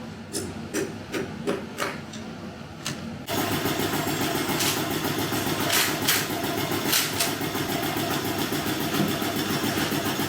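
A few light knocks over a low hum, then about three seconds in a louder, steady mechanical running noise cuts in suddenly, with a few more knocks over it.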